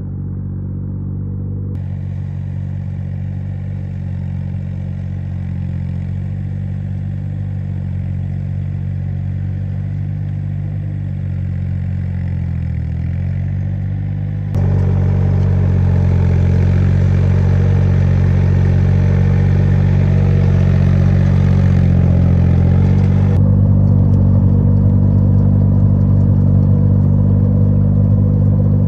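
An engine running steadily at a nearly constant speed, heard in several joined stretches that change abruptly in loudness; it is louder over the second half.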